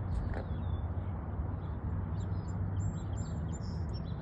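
Songbirds chirping: a run of short, high whistled notes, thickest in the second half, over a steady low rumble.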